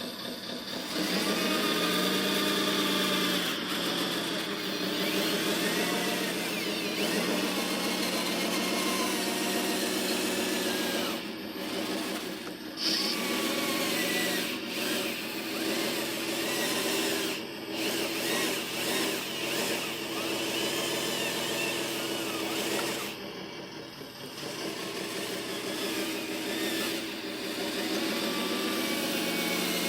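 Small electric motors and gearboxes of radio-controlled construction vehicles whining, their pitch rising and falling as they speed up and slow down, with brief dips about a third and again about four-fifths of the way through.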